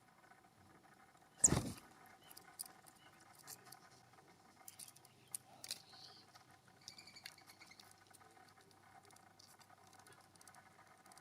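One sharp knock close to the microphone about a second and a half in, followed by a scatter of light clicks and ticks, with faint bird calls in the distance.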